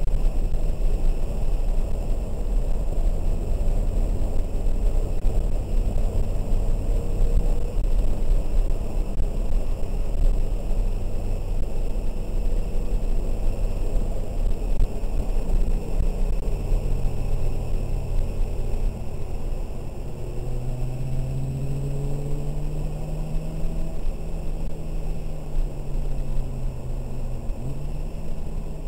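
2003 BMW 330i ZHP's 3.0-litre straight-six running under load on a wet track, heard from inside the cabin over a heavy low rumble of road and tyre noise. Late on, the engine note climbs slowly for several seconds and then drops briefly.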